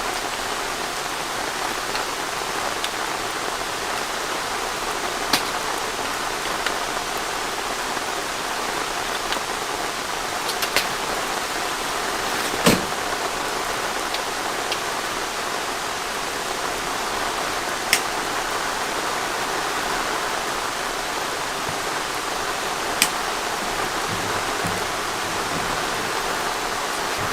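Steady rain falling, with now and then a single heavier drop ticking sharply on a surface, the loudest about halfway through.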